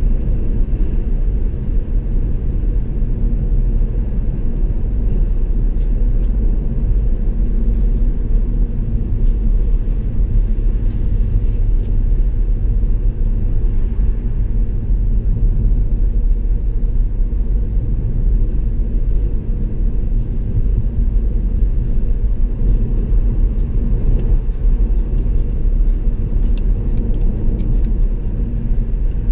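A car driving along a road: a steady low rumble of tyres and engine that barely changes.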